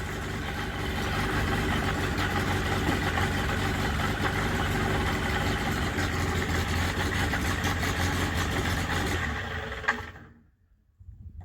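Small airplane's piston engine with propeller running steadily at low power, then dying away near the end.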